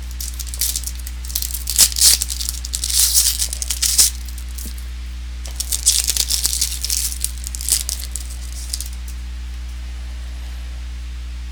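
Trading cards being handled, slid and flicked against one another: two bouts of dry rustling with small clicks, the first starting about half a second in and the second running from about five and a half to nine seconds in.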